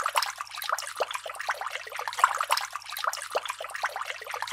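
Water trickling and splashing down a miniature three-tier fountain into its small pool: a continuous patter of many small, irregular splashes, with a faint steady low hum underneath.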